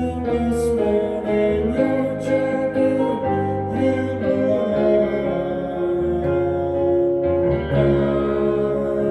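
Live band playing an instrumental passage between sung lines, with guitar chords held over low bass notes.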